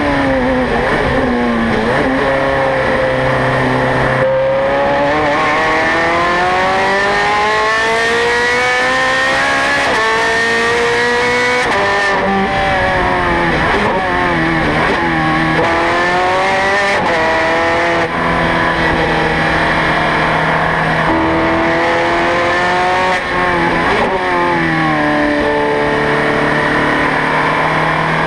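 Ferrari 430 Scuderia's flat-plane-crank V8 running hard on track: the engine note climbs long and high through the revs, then falls sharply, and does this several times as it is driven through gears and corners.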